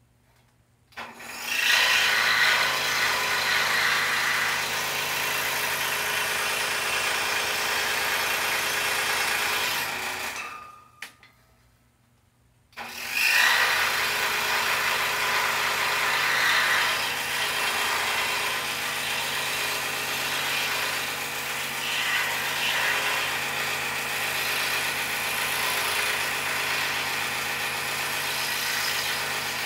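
Scroll saw starting and running, its blade cutting a poplar board with a steady buzzing hum. It winds down and stops about ten seconds in, then starts again about two seconds later and runs on.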